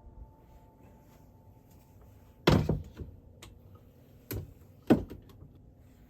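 Hard knocks of items being handled and put down in a refrigerator: a loud one about two and a half seconds in, a lighter one near four seconds and another loud one about a second later.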